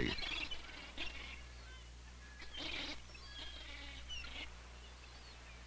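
Faint bird calls: a few scattered short cries and chirps, bunched around a second in and again in the middle, over a low steady hum.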